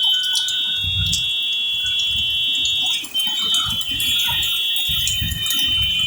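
Heavy rain falling, with scattered ticks of drops, under a steady high-pitched ringing of several tones at once that breaks off briefly about three seconds in.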